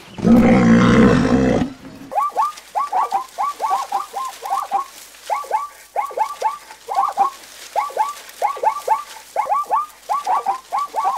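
A loud, low animal call lasting about a second and a half, then birds chirping: short hooked notes in quick clusters of two to four, repeating over and over.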